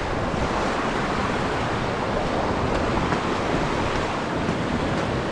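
Steady rushing of a mountain creek's water flowing over rocks, an even hiss with no breaks.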